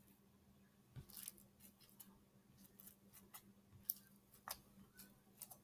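Faint, scattered small clicks and taps from handling slime-making supplies, over a faint steady hum.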